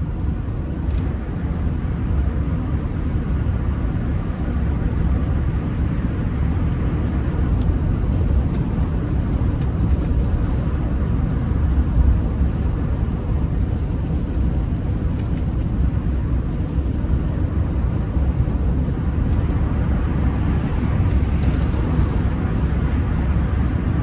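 Steady low rumble of engine and road noise inside the cabin of a Rolls-Royce Silver Spirit III driving along.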